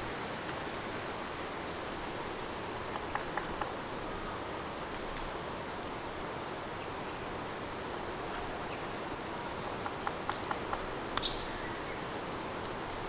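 Steady rain, an even hiss. A few faint high chirps sit above it, with short runs of small clicks about three seconds in and about ten seconds in, and a sharper tick near the end.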